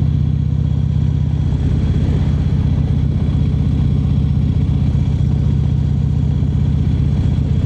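Harley-Davidson motorcycle's V-twin engine running steadily with a low rumble, holding an even pitch without revving up or down.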